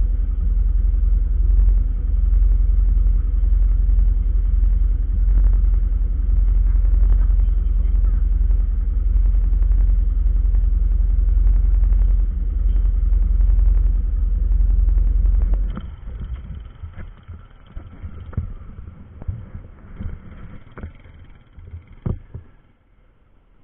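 Steady low rumble of a moving vehicle heard from inside it. It stops abruptly about two-thirds of the way through, leaving scattered knocks and clicks.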